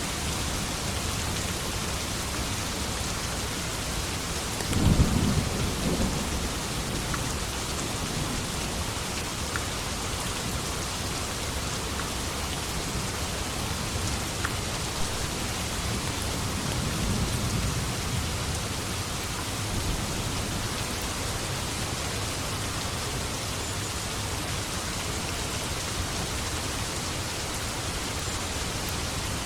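Steady heavy rain on a surface, with a sharp clap of thunder about five seconds in and a softer, longer thunder rumble around the middle.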